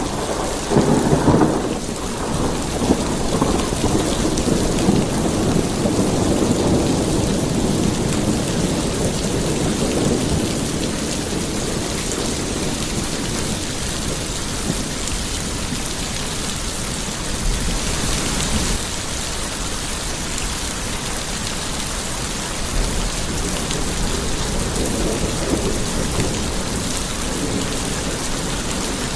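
Steady heavy rain, with a thunder rumble at the start that rolls on and fades over the first ten seconds or so.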